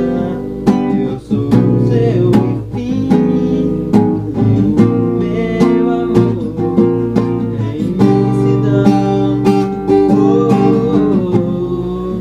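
Music: strummed acoustic guitar, with a singing voice faintly in places, fading at the end.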